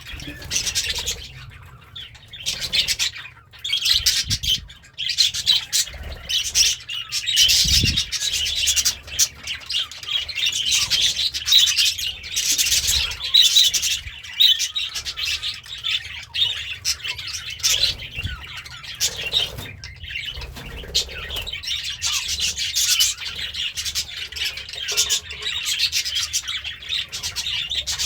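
Budgerigar chirping and chattering in a continuous, rapid high-pitched warble.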